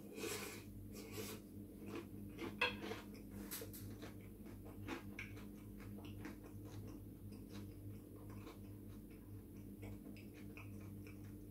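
Close-up chewing of a mouthful of garlic bread and coleslaw: many small wet mouth clicks. A sharper clink about two and a half seconds in, a fork set down on the plate.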